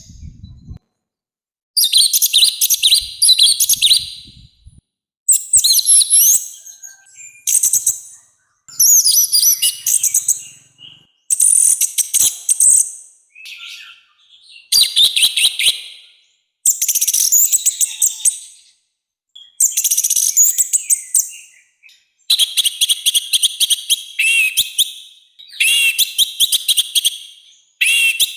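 Orange-headed thrush (anis merah) singing in a loud, harsh voice: a run of rapid, chattering high-pitched phrases of one to two seconds each, separated by short pauses.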